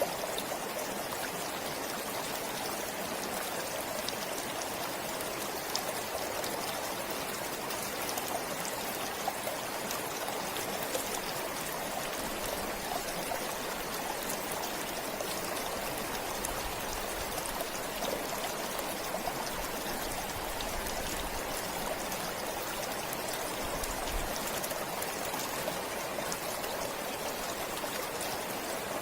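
Forest stream flowing steadily, water rushing and trickling over stones with small splashes and drips.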